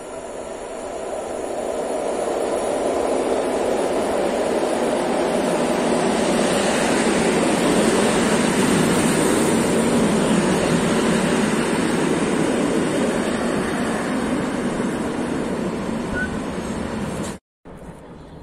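A train running past on the rails: the rumble and hiss of wheels on track build up over the first few seconds, hold steady and loud, then cut off suddenly near the end.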